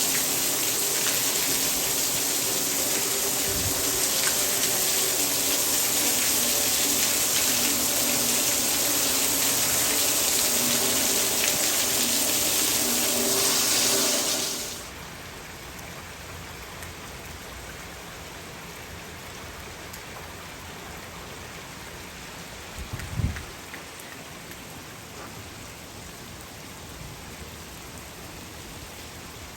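Torrential rain, a loud steady hiss of water coming down hard. About halfway through it drops suddenly to a much quieter, steady rain hiss, with one brief low thump a little later.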